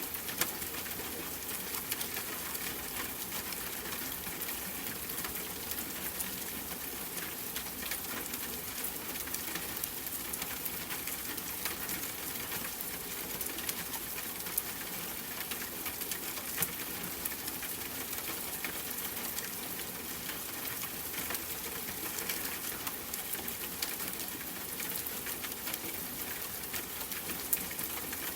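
Steady rain pattering, with scattered sharp ticks of single drops striking a surface close by.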